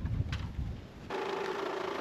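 Low wind rumble on the microphone, then about a second in a steady mechanical buzz with a hum, as from a small motor running.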